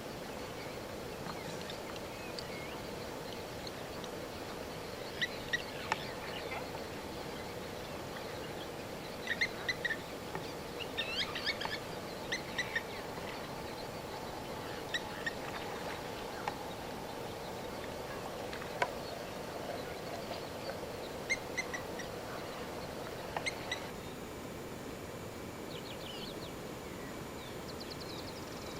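Birds calling in short chirps and trills over a steady background hiss, with the calls clustered around five to six seconds in, again from about nine to thirteen seconds, and a few more later.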